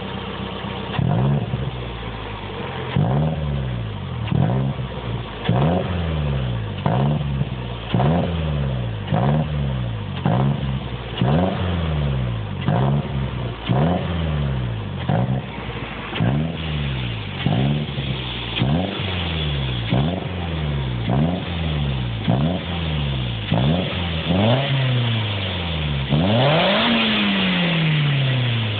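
Toyota MR2 Roadster's 1.8-litre four-cylinder engine revved through its exhaust in quick throttle blips, about one a second: each rev jumps up and falls back toward idle. Near the end a longer, higher rev is held for a couple of seconds before dropping.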